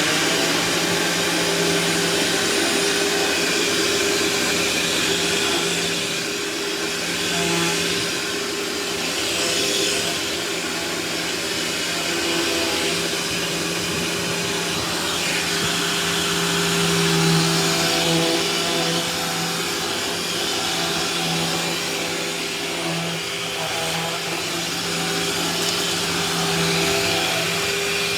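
Dirt Devil Vision self-propelled upright vacuum cleaner running steadily while vacuuming, a continuous motor hum whose pitch shifts slightly now and then.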